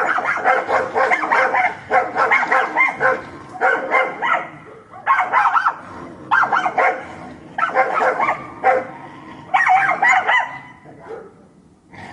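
Pinscher barking rapidly in quick runs of several barks, with short pauses between the runs.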